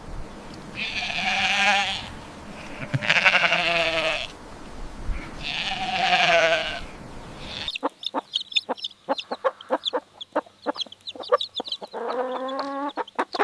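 An animal bleating: three long, wavering bleats, then a run of sharp clicks and a short call near the end.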